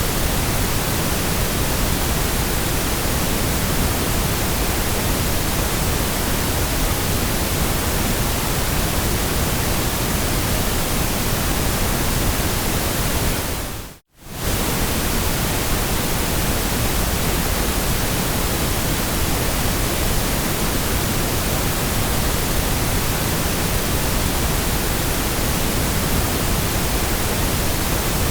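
Steady generated white noise, an even hiss spread across all pitches. About halfway through it fades out to silence for a split second and comes straight back.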